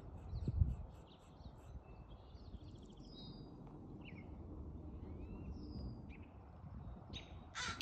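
Small songbirds chirping and whistling in short, scattered notes over a low rumble, with a thump about half a second in. Near the end a crow starts cawing loudly.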